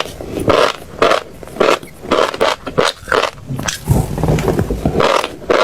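Close-miked chewing of crunchy food: a steady run of crisp crunches, about two a second, with soft low jaw thuds between them.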